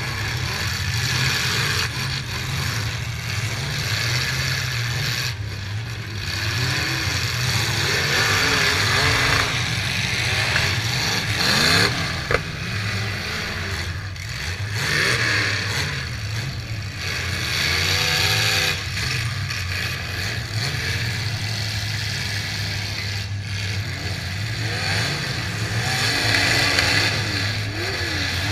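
Several modified demolition derby cars' engines running and revving repeatedly, with a single sharp knock of a hit about twelve seconds in.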